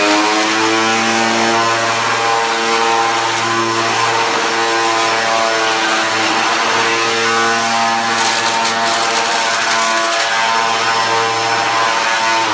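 2000-watt Hoover Dust Manager DM4523 vacuum cleaner running flat out, a loud steady motor whine; the motor begins to wind down at the very end.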